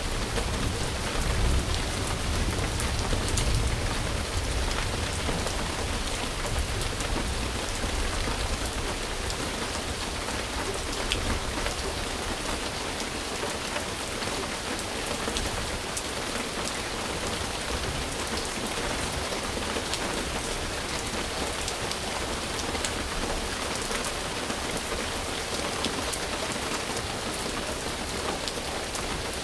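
Steady rain falling, a dense even patter with individual drops ticking through it. A low rumble sits under it during the first several seconds and fades away.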